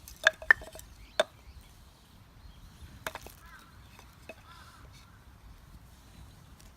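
Firewood being split with a knife: sharp wooden knocks of the blade being struck through the wood, three in quick succession, another about three seconds in and a fainter one a second later.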